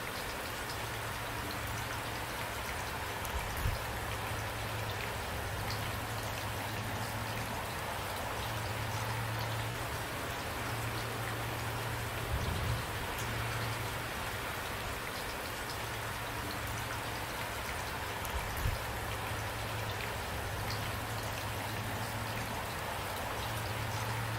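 Steady rain falling and pattering on a surface. Three single louder low thuds stand out, one early, one near the middle and one about three-quarters through.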